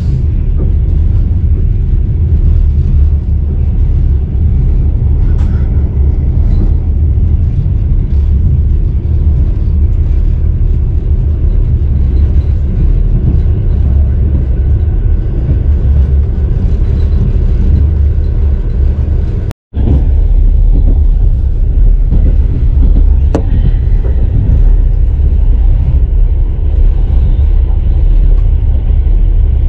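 Passenger train running at speed: a loud, steady, low rumble. It cuts out for a split second about two-thirds of the way through.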